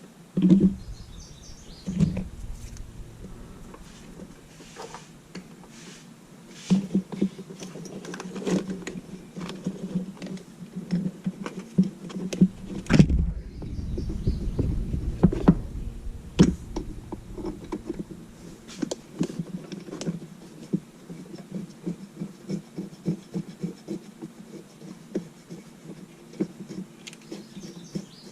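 Irregular runs of quick clicks and knocks from hand tools at work on a truck's spark plugs and plug wires, with a heavier knock about 13 seconds in.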